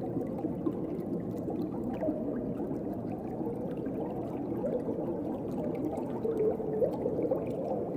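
Underwater ocean ambience: a steady, low wash of moving water with small bubbling sounds and faint scattered clicks.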